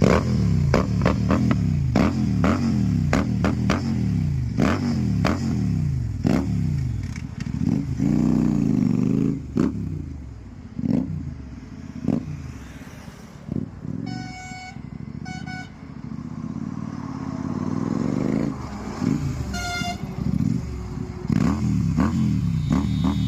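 Royal Enfield Continental GT motorcycle with a loud exhaust being revved in quick repeated blips, about one a second, with sharp cracks from the exhaust between revs. Through the middle it settles down quieter, and a vehicle horn honks twice in quick succession and once more a few seconds later. The revving picks up again near the end.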